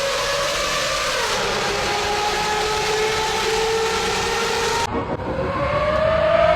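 V12 engine accelerating hard: the engine note climbs, drops back about a second in as it shifts up, and holds. About five seconds in the sound changes abruptly and the note climbs steadily again.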